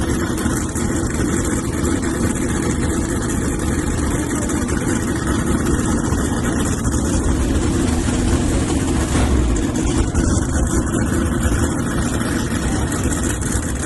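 Drag-race truck engine idling loudly and steadily, with a brief deeper surge about nine seconds in.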